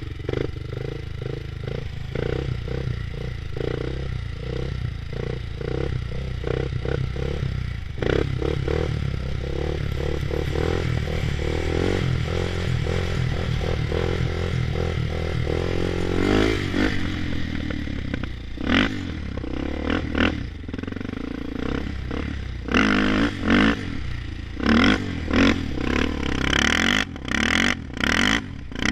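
Honda 400EX ATV's single-cylinder four-stroke engine held on the rev limiter, stuttering rapidly as the limiter cuts in and out. About two-thirds of the way through it drops back, then comes in as a run of short, loud revs.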